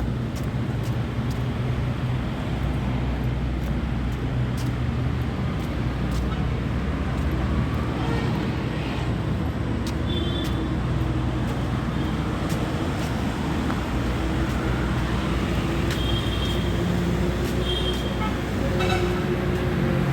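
Steady road traffic: vehicle engines running and passing close by, with a few short high beeps about halfway through and again near the end.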